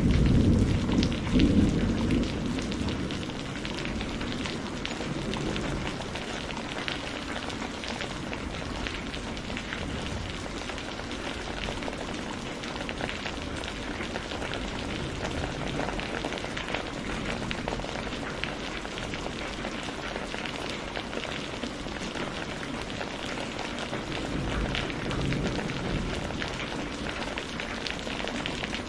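Steady heavy rain falling on surfaces, with a dense patter of drops. The tail of a thunder rumble fades out over the first few seconds, and a low rumble swells again briefly near the end.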